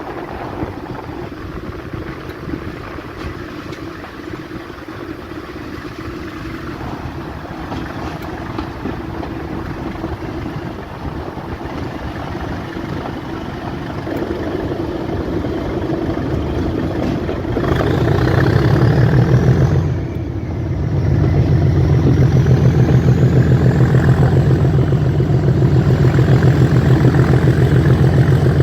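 A heritage diesel train's engine growing steadily louder, then running loud and close with a fast, even low beat from a little past halfway. A high whine rises in pitch alongside it and then holds steady, with a short dip in the engine sound just before it settles.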